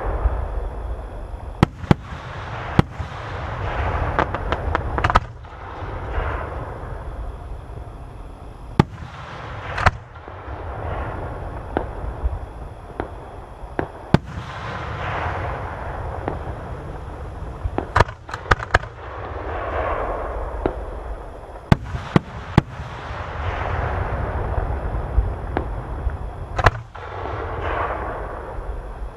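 Aerial fireworks display: sharp bangs of shells bursting at irregular intervals, over swells of hissing, crackling noise that rise and fade every few seconds.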